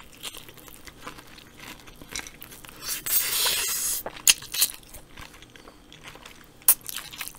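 Close-miked crunching and chewing of a battered fried chicken wing, with sharp crunches scattered throughout and a louder stretch of chewing about three seconds in.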